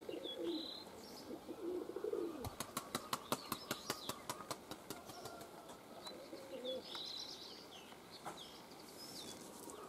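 Small birds chirping in short high calls near the start and again around seven seconds in, with an irregular run of sharp clicks in between.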